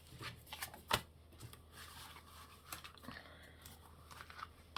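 Paper and card being handled on a craft desk: light rustling and small taps, with one sharp knock about a second in.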